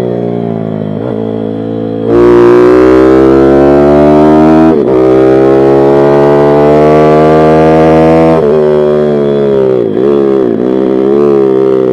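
Pit bike engine revving hard under throttle: the pitch climbs after it gets louder about two seconds in, breaks briefly for a gear change near the five-second mark, and holds high. Near the end the revs fall in several steps, like downshifts, before rising again.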